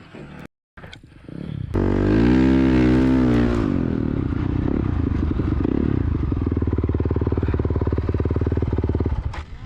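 Dirt bike engine revved up hard about two seconds in, then held at steady high revs with an even pulsing beat, backing off near the end.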